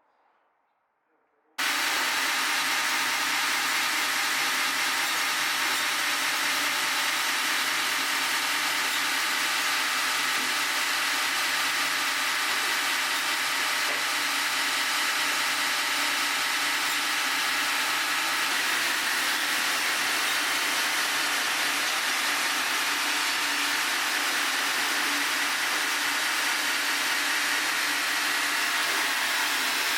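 Sawmill running as it saws a log, a loud, steady hiss of the saw in the wood that starts abruptly about a second and a half in.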